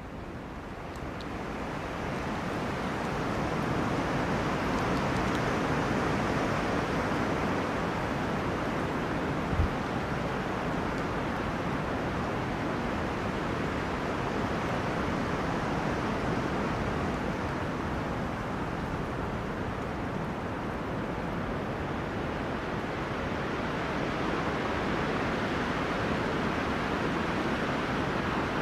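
Wind rushing through forest trees, a steady noise that swells up over the first few seconds and then holds. A brief low thump about ten seconds in.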